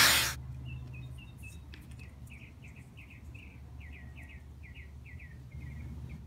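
A small songbird singing a long series of quick, high chirps in short clusters, repeated for about five seconds. A loud rushing noise cuts off just as it begins.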